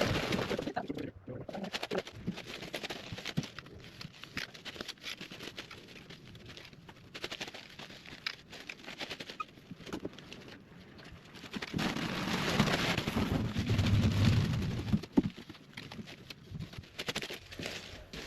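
Shovel work in loose sand: irregular scraping and knocking, with a longer, louder rush of sand being moved about two-thirds of the way through.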